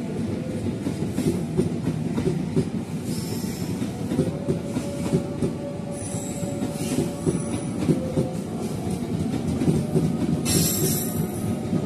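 Passenger train coaches running past at speed, wheels clattering rapidly over the rail joints with a continuous rumble. A brief high-pitched wheel squeal comes near the end.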